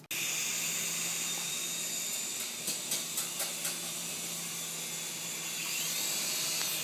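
Syma S107G coaxial mini helicopter's small electric motors and rotors whirring steadily with a hissy sound, with a few light clicks about three seconds in.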